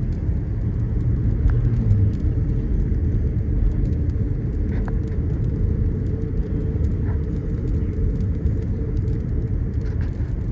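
Steady low road rumble of a car driving, heard from inside the cabin: engine and tyre noise with a few faint ticks.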